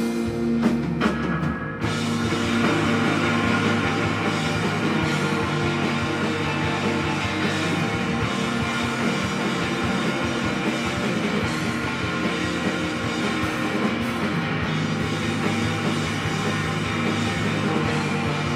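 Rock band playing live: guitar with separate hits in the first couple of seconds, then the full band with drums comes in about two seconds in and plays on steadily.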